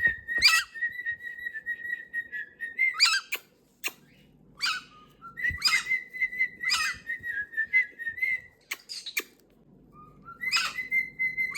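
Pet parrot whistling: three phrases, each a sharp rising swoop leading into a long, steady held note, with short pauses between them.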